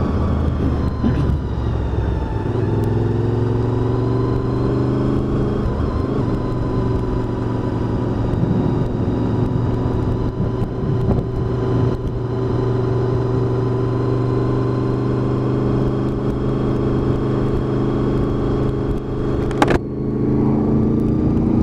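Honda VFR800's V4 engine under hard acceleration in a tunnel: the revs climb over the first few seconds, then hold high and steady, with a short break near the end before they pick up again.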